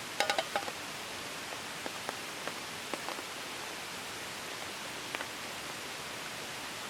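Steady hiss of rain falling, with scattered drops tapping. Near the start comes a brief cluster of sharper, slightly ringing taps.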